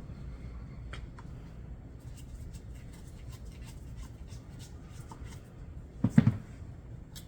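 Light clicks and scrapes of a screwdriver and small metal carburetor parts being handled during disassembly of the float bowl, over a low steady hum. About six seconds in, a short, loud thump.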